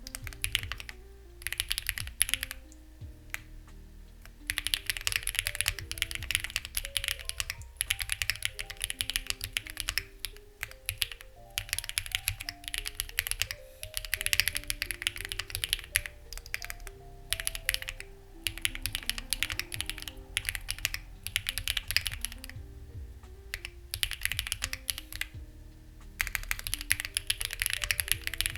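Typing on a Lucky65 v2 mechanical keyboard with stock, unlubricated HMX Ziwei switches and clone CMK keycaps. The keys clatter in runs broken by brief pauses, over soft background music.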